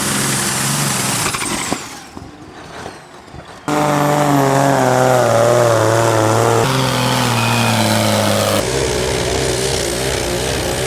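Pulling tractors' engines running hard in a string of short clips: the sound changes abruptly several times, with a quieter stretch about two seconds in, then a steady, slowly falling engine note.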